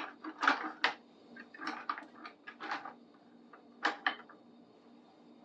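A run of short knocks, taps and rustles from a plastic gallon vinegar jug being handled and opened, spread over the first four seconds, then quiet.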